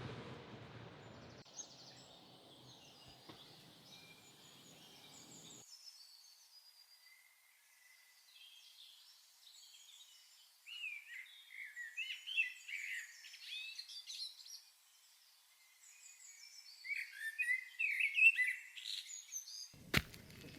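Small birds chirping in clusters of quick, high, twittering notes, starting about halfway in and busiest near the end; before that there is only faint outdoor background noise.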